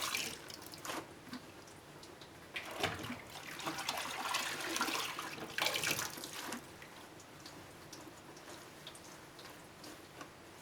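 Water splashing and dripping in a twin-tub washing machine's tub in irregular spells during the first half, then only faint trickling.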